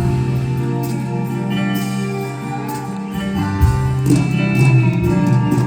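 Live band playing an instrumental passage between the song's verses, with guitar over held chords that change a few times.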